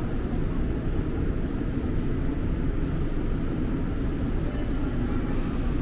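Steady low rumble of a metro train, with no clear starts or stops.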